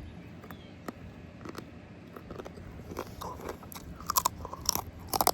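Close-miked chewing and biting of food, with wet mouth clicks and small crunches; the clicks and crunches get sharper and louder about four seconds in.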